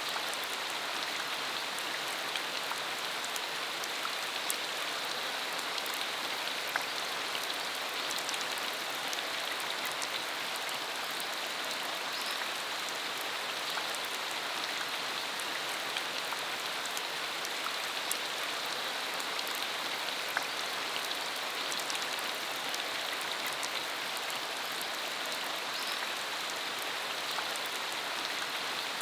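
Steady rain falling on a dirt country road: an even hiss, with scattered sharper ticks of single drops landing.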